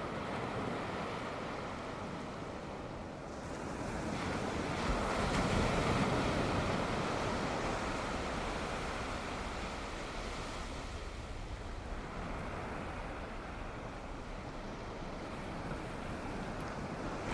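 Sea waves washing onto the shore: one wave surges up about four seconds in and slowly fades, and the next begins to build near the end.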